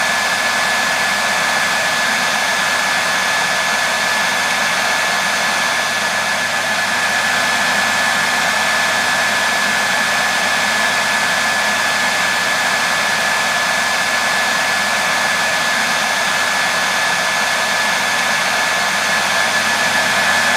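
Hair dryer running steadily, a constant rushing blow with a single high whine held on top.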